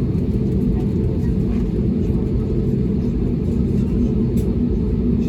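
Airbus A320neo jet engines running on the ground, heard from inside the cabin as a steady low rumble with a faint hum.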